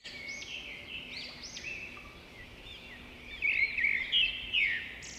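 Birds chirping: many quick, high chirps that sweep up and down, busiest and loudest from about three and a half seconds in.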